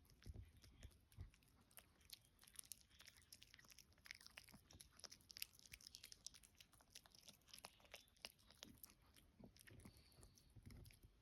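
A dog chewing, heard as faint, irregular crunching clicks.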